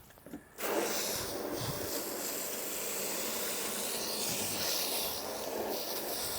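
High-pressure water spray from a self-service car wash wand, starting suddenly about half a second in and then running steadily as a hiss.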